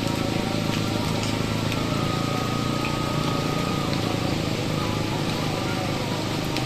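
Steady rain with soft background music.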